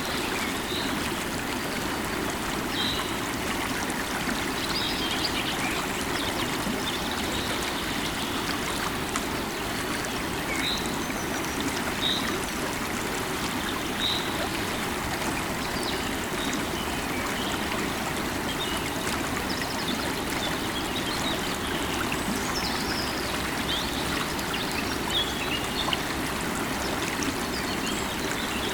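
River water running steadily over rocks, with a few short bird chirps scattered through it.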